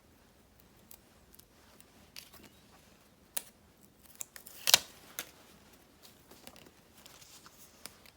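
Scissors and paper being handled: scattered light clicks and rustles, with one louder, sharp snip a little before the five-second mark.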